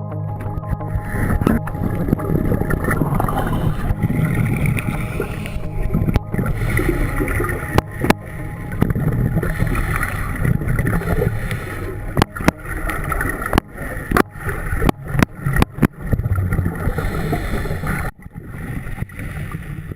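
Boat noise on the water: a steady low rumble with many sharp knocks and splashes scattered through it.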